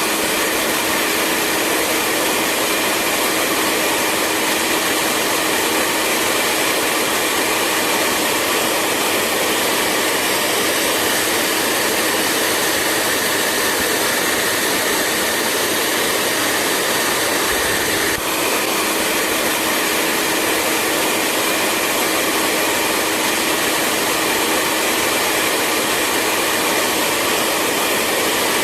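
Hair dryer running steadily: an even rush of blown air with a faint motor hum underneath, broken only by a momentary dip about two-thirds of the way through.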